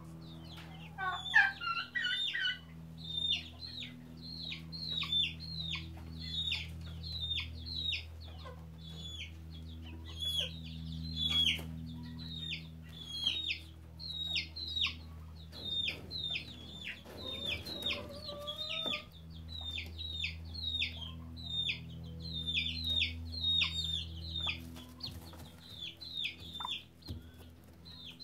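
Birds calling without a break: a quick string of short, high, downward-sliding chirps, several a second, with a few lower rising calls about a second in and again past the middle. A steady low hum sits under them.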